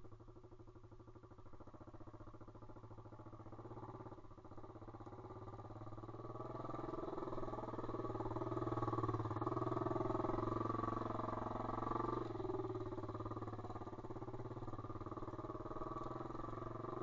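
Pit bike's single-cylinder engine running while riding. It grows louder and higher from about six seconds in, then eases back down near the end.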